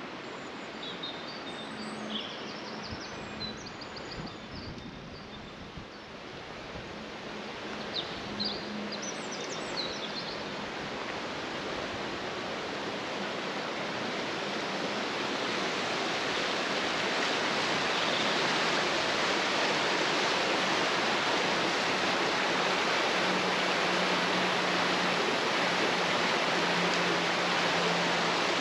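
Rushing water, a steady hiss that grows louder over the first half and then holds level. A few high chirps come in the first ten seconds.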